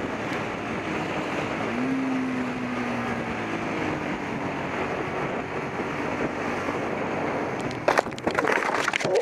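Motorcycle riding with steady wind rush on the camera microphone and a faint engine note. Near the end comes a sudden clatter of sharp knocks: the bike colliding as a pedestrian steps out in front of it while the rider filters through traffic.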